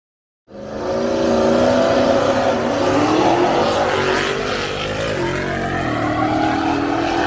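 Drag race car's engine running loud at high revs, its pitch rising and falling, cutting in abruptly about half a second in.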